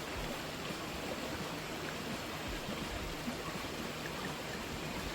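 Waterfall with water falling and rushing in a steady, even wash of noise.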